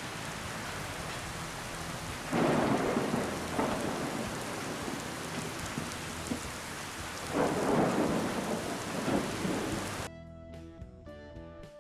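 Steady heavy rain with two louder rushing swells, each about two seconds long and about five seconds apart. Near the end the rain cuts off abruptly and plucked-string music begins.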